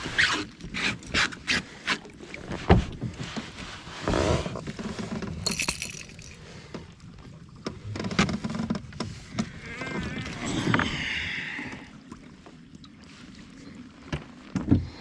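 Clicks, knocks and rattles of fishing gear being handled aboard a kayak: a quick run of clicks at the start, scattered knocks, and a couple of rustling, hissing stretches.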